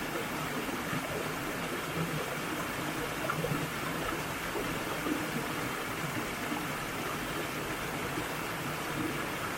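Mountain valley stream flowing steadily, a constant even rush of water.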